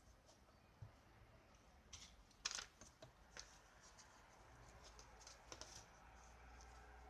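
Near silence with a low hum and scattered faint clicks and light scrapes, the sharpest click about two and a half seconds in.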